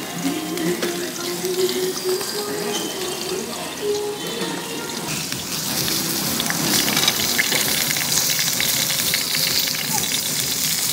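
Food frying in hot oil: a steady sizzle full of fine crackles that gets louder about halfway through.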